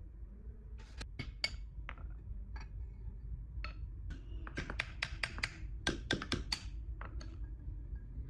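Sharp, irregular clicks and taps of hand tools and small metal parts being handled during work on an air compressor head, with a quick flurry of them near the middle, over a low steady hum.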